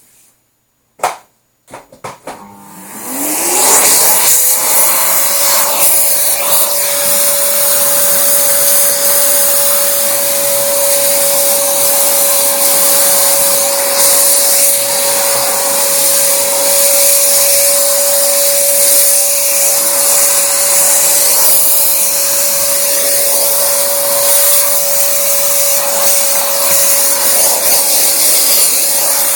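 A small high-speed electric motor, after a couple of clicks, is switched on. It spins up in a rising whine about two to four seconds in, then runs at a steady pitch with a constant hiss and no change under load.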